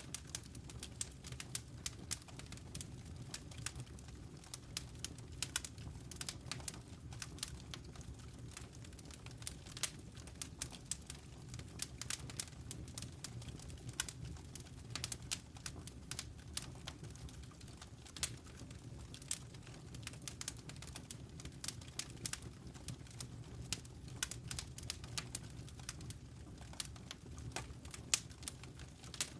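Fireplace fire crackling: irregular sharp pops and snaps, several a second, over a low steady rumble of the flames.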